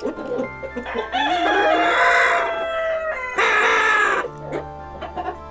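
A rooster crowing: a long crow starting about a second in, followed at once by a shorter one, over quiet background music.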